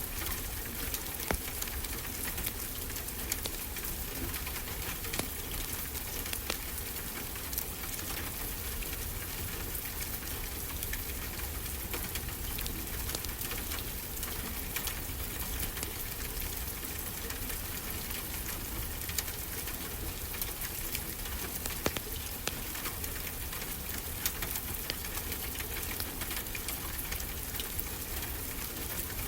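Wood fire crackling, with scattered sharp pops, over a steady wash of ocean surf.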